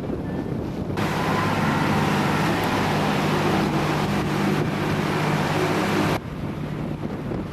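Boat motor running steadily under way, with a rush of wind and water. About a second in the rush jumps much louder and the motor's hum grows stronger for about five seconds, then drops back suddenly.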